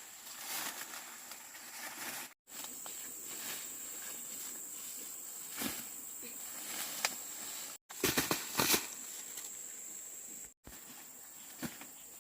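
Outdoor ambience with a steady high-pitched insect drone, broken by scattered rustles and knocks, with a louder cluster of knocks about eight seconds in; the sound cuts out briefly three times.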